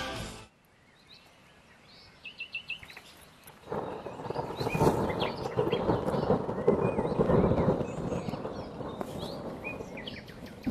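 Birds chirping in short repeated notes, then a few seconds in a loud rolling rumble of thunder sets in and carries on, rising and falling.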